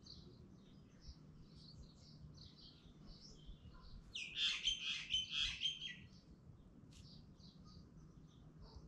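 Small birds chirping, with a louder burst of quick, high chirps about four seconds in that lasts some two seconds.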